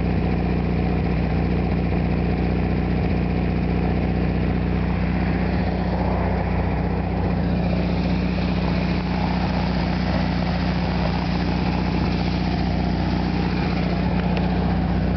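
1973 Volkswagen Super Beetle's rebuilt 1600cc air-cooled flat-four idling steadily at about 800 rpm, with its carburettor freshly cleaned and its idle adjusted.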